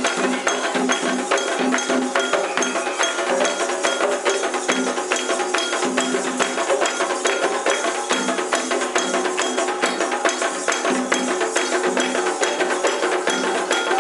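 Candomblé ritual percussion: hand drums and struck instruments beaten in a fast, even rhythm, with held tones sounding beneath.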